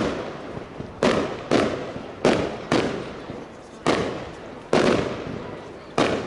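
Fireworks bursting in the air: a string of sharp bangs, about eight in six seconds at uneven spacing, each fading out over half a second or so.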